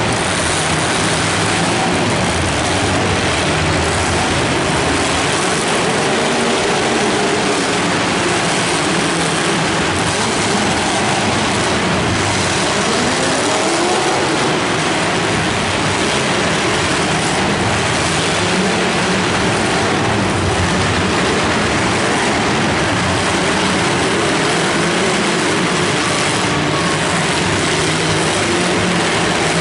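Many demolition derby cars' V8 engines running and revving at once, a loud steady din of overlapping engine notes rising and falling. A few faint knocks of metal-on-metal collisions sound over it.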